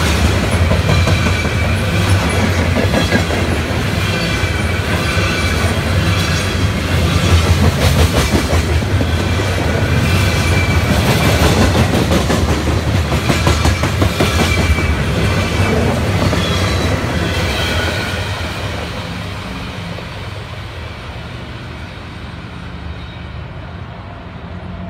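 Freight train's coal hopper cars rolling past on the rails: a steady rumble and clickety-clack of wheels over rail joints, with thin squeals from the wheels. It fades away over the last several seconds as the end of the train passes.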